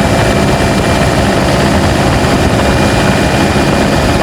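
Turbocharged diesel pickup engine running steadily under load on a steep uphill climb, a loud, even drone mixed with road and wind noise.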